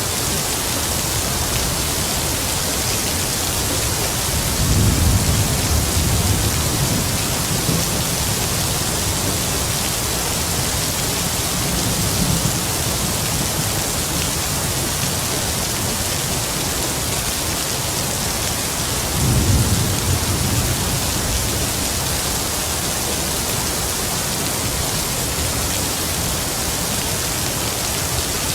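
Heavy rain falling in a steady hiss, with low rumbles of distant thunder swelling about five seconds in, more faintly around twelve seconds, and again near twenty seconds.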